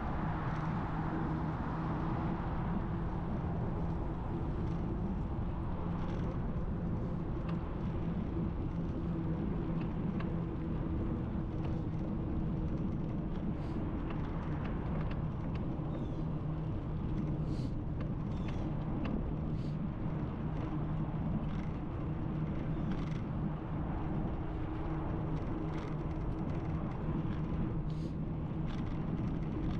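Steady wind and road rumble on the microphone of a camera riding along on a bicycle, with a constant low hum. Brief high clicks are scattered through the second half.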